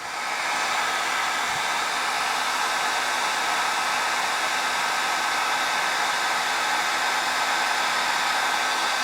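Handheld hair dryer coming up to speed right at the start, then running steadily: an even rush of blown air with a faint steady hum.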